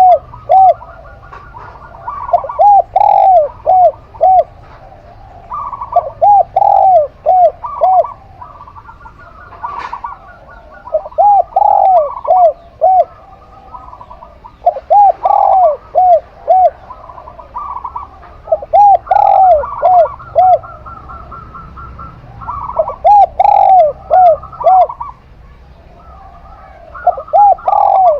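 Doves cooing: loud phrases of several rolling, arched coos, with a higher trill over them, repeated about every three to four seconds.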